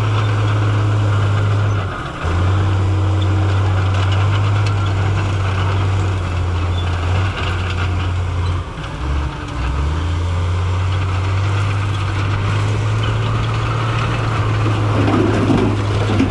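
Heavy diesel engine of earthmoving machinery running with a steady low drone. The level dips briefly about two seconds in and again around halfway through.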